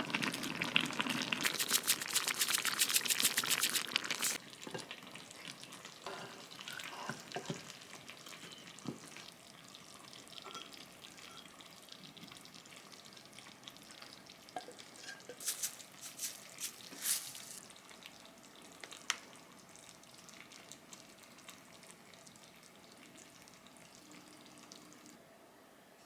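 Food sizzling in a hot pan: a dense crackle for about the first four seconds, then dying down to a low sizzle with scattered pops and clicks.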